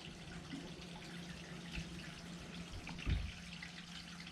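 Quiet room tone with a steady low hum and a faint hiss, and one soft knock about three seconds in as small metal and plastic airsoft bolt parts are handled.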